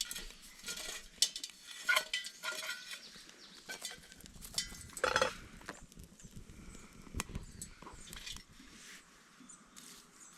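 Irregular light metallic clinks and knocks with rustling, as small camp cookware and stove parts are handled and set down. The loudest clink, with a brief ring, comes about five seconds in.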